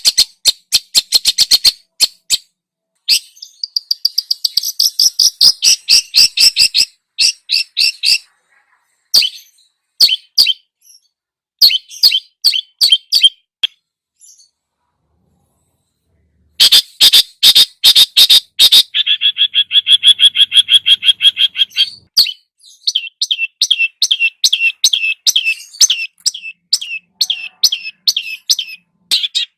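Songbird masteran recording of a cucak jenggot bulbul and a cendet (long-tailed shrike) singing: fast runs of sharp repeated notes and chattering trills. The song breaks off for about two and a half seconds a little past the middle, then resumes.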